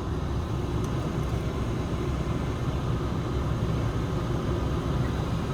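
Steady low rumble and air hiss inside the cabin of a 2015 Volkswagen Passat 2.0 diesel, with the engine idling and the climate-control fan blowing through the vents.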